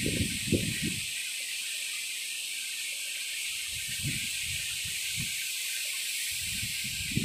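Strong gusty wind with a steady high hiss, and low rumbling buffets as gusts hit the microphone in the first second, again about four seconds in and near the end.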